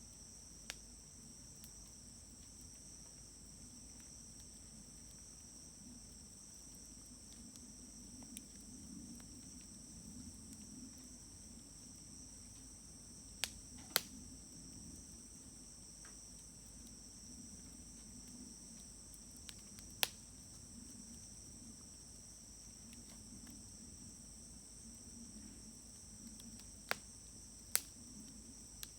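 Burning firewood popping sharply about six times, loudest a little before and after halfway and twice near the end, with a low steady rustle of the fire. Under it runs a steady high-pitched chorus of insects such as crickets.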